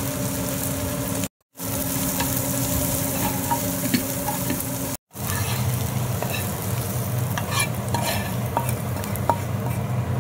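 Sliced onions and green chillies sizzling in a frying pan while a metal spatula stirs and scrapes through them, with small clicks and a low steady hum underneath. The sound drops out completely for a moment twice.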